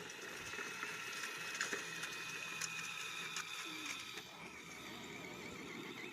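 Electric motor and gear drivetrain of a radio-controlled truck whining steadily under load in a truck pull, with a few clicks and rattles.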